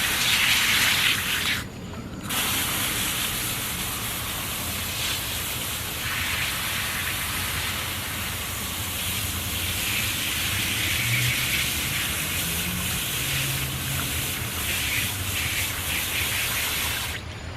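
Water spraying steadily, as when a small dog is rinsed during a bath. There is a brief break about two seconds in.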